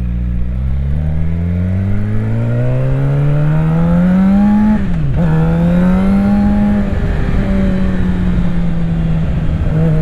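Suzuki GSX-R 750's inline-four engine accelerating hard, its pitch rising steadily through a gear, then a quick upshift about halfway through drops the pitch before it settles to a steady cruise.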